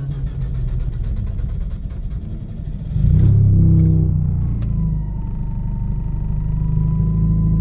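Mazda RX-8's twin-rotor Renesis rotary engine cranking with a rapid, even beat, then catching about three seconds in with a short burst of revs and settling into a steady run. The car is hard to start, and its starter, spark plugs and coils are suspected.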